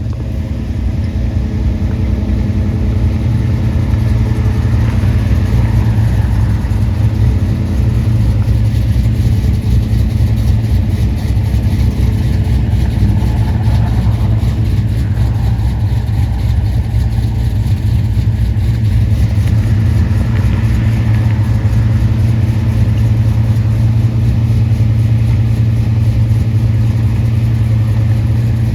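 Car engine running steadily, a loud, even low hum with no change in speed.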